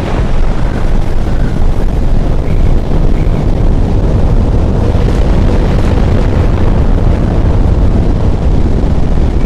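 Strong wind during a tornado, blowing hard against the microphone: a loud, steady low noise with no letup.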